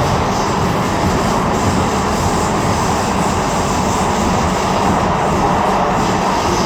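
A Tyne and Wear Metro train running through a tunnel, heard from inside the carriage: a loud, steady rumble of wheels on rail with a faint constant hum.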